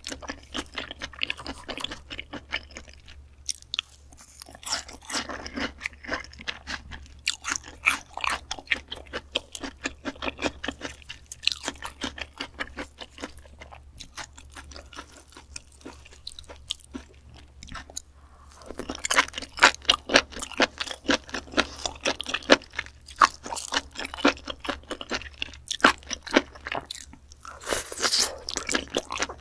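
Close-miked wet chewing and mouth sounds of a person eating raw beef tartare, a dense run of small clicks and squelches that grows louder about two-thirds of the way through.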